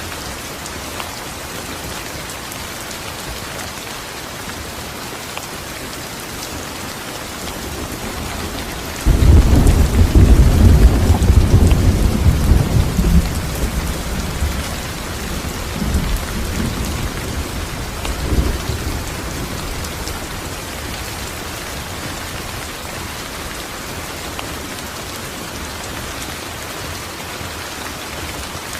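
Steady rain falling, with a sudden clap of thunder about nine seconds in that rumbles low and loud, then rolls on and fades over roughly ten seconds before the rain alone carries on.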